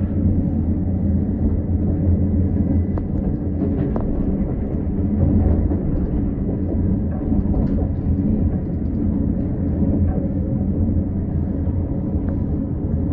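Steady low rumble of a moving metre-gauge Montreux Oberland Bernois (MOB) passenger train heard from inside the carriage, with a few faint clicks from the running gear.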